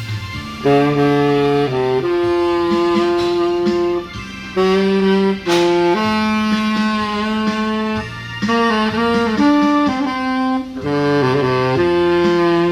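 A saxophone playing a slow melody of long held notes over a backing accompaniment.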